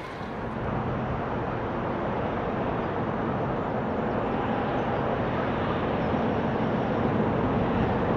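Distant train approaching: a steady low rumble that slowly grows louder.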